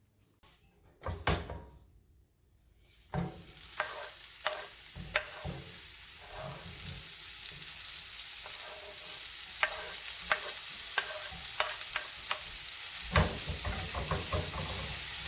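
A thump about a second in, then chopped Swiss chard starts sautéing in ghee and butter in a pan about three seconds in: a steady sizzle with repeated clicks and scrapes of a utensil stirring it.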